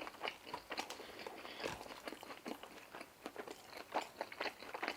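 A person chewing crunchy food close to the microphone: a quick, irregular run of small crunches.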